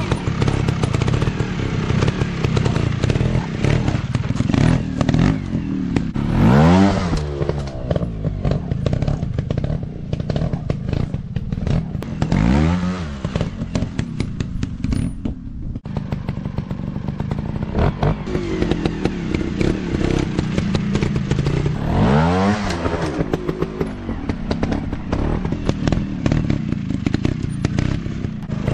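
Dirt-bike engine running continuously, revving up and dropping back several times, with clattering and scraping mixed in.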